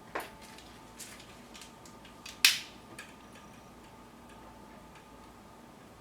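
A small fire of newspaper and twigs in a compact stove crackling: a few irregular sharp pops, the loudest about halfway through, over a faint steady background.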